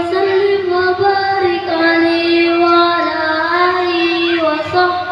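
A child singing solo, holding long, loud notes with small wavering ornaments and slides between them.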